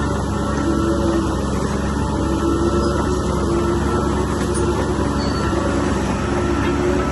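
Heavy earthmoving machinery's diesel engine running steadily, its pitch wavering slightly.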